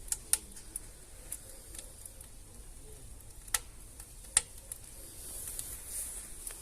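Wood fire burning in a stove's firebox: scattered sharp crackles and pops over a soft hiss, the hiss swelling near the end.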